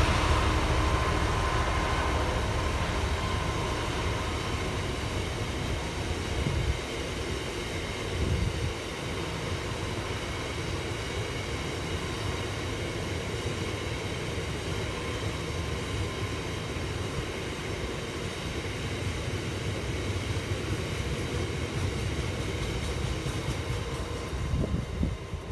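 Freight train of box-hopper wagons rolling past behind a Class 66 diesel-electric locomotive: the locomotive's two-stroke diesel engine fades away over the first few seconds, leaving a steady rumble and rattle of wagon wheels on the rails.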